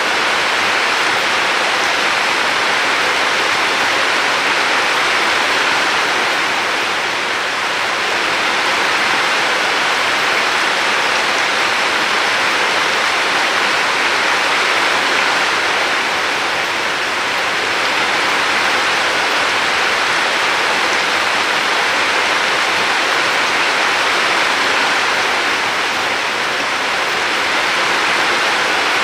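River water rushing and splashing in a steady, even hiss that swells slightly now and then.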